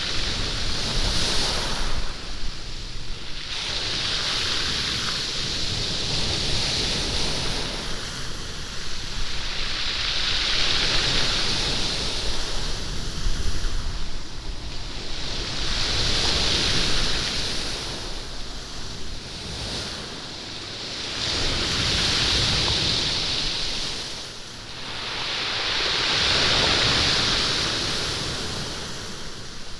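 Sea waves washing up and drawing back over a stony beach, rolling and rattling the stones, the hiss swelling and easing every few seconds.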